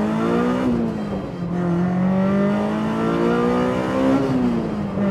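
Honda S2000 CR's four-cylinder engine at full throttle, heard from inside the cabin: the revs climb, drop sharply at an upshift under a second in, climb again for about three seconds and drop at a second upshift near the end.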